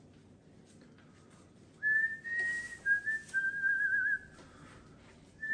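A short whistled phrase starting about two seconds in: clear notes that step down in pitch, ending in a wavering trill, then it stops.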